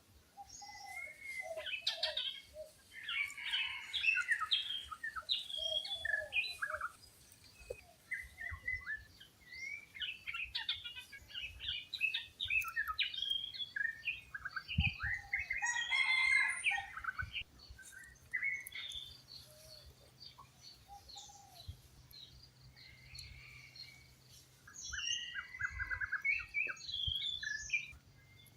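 Wild birds chirping and calling, with many quick, varied notes and short trills from several birds, coming in a few busy bursts with quieter gaps between.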